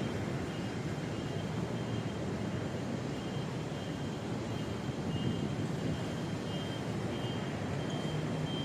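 Steady city street noise from passing traffic, with a faint high tone that comes and goes.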